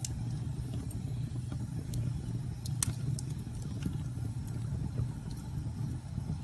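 Fireplace crackling, with scattered sharp pops over a steady low rumble of wind; one louder pop about three seconds in.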